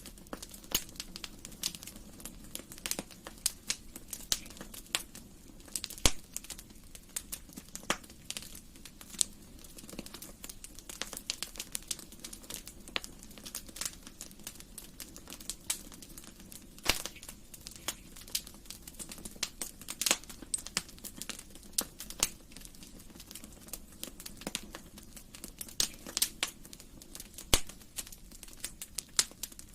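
Wood fire crackling in a fireplace: irregular sharp snaps and pops, a handful of them louder, over a low steady rumble.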